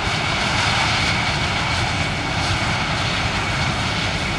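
Jet airliner engines running nearby: a steady rushing noise with a thin, steady high whine.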